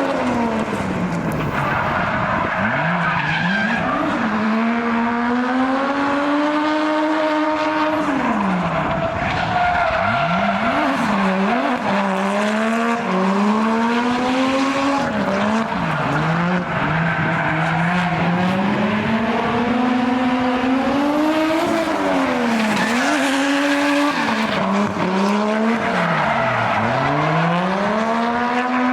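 Toyota Cresta JZX100's 1JZ straight-six engine revving hard, its pitch climbing and falling again and again with sharp dips every few seconds as the driver works the throttle through a drift, with the tyres squealing.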